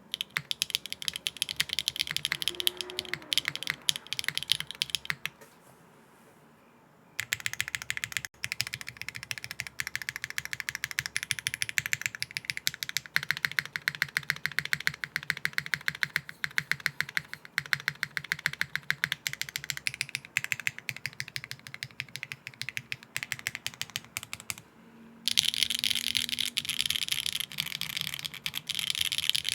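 Fast typing on an HMX Hyacinth V2U 60% mechanical keyboard with a nylon plate, no foam and GMK keycaps, giving a quick run of sharp clacking keystrokes. The typing stops for about two seconds near the six-second mark, then resumes. It breaks briefly again near the end and comes back louder.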